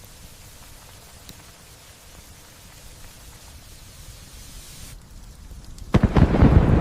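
Steady light rain falling. About six seconds in, a sudden loud thunderclap cracks and rolls into a deep rumble.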